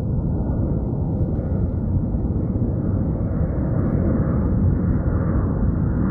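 Steady low rumbling noise of wind buffeting the microphone, with no clear tone in it.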